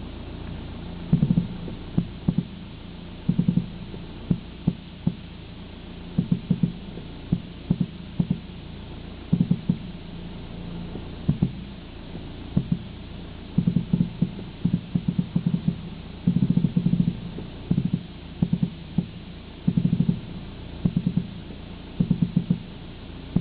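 Irregular clusters of short knocks, roughly one every second or two, over a steady low rumble: the unexplained strange noise from a Volkswagen Passat.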